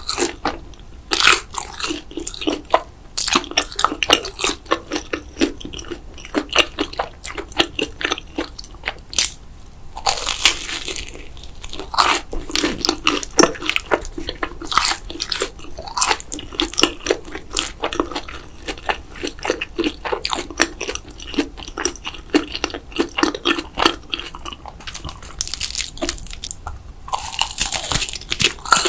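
Close-miked chewing and biting of cheese noodles and mozzarella sticks: a dense run of sharp crunchy clicks. Longer noisy stretches come about ten seconds in and again near the end.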